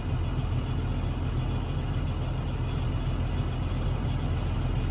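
Tractor engine running steadily, a low even drone heard from inside the cab.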